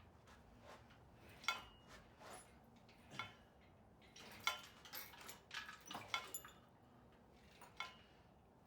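Scattered light metallic clinks and clanks, about a dozen irregular strikes with a brief ring, several close together in the middle: metal tools or parts being handled and set down.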